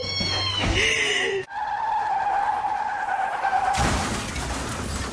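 Cat meowing with a wavering, drawn-out cry, cut off abruptly about a second and a half in. A long steady whining tone follows, then a hiss of noise near the end.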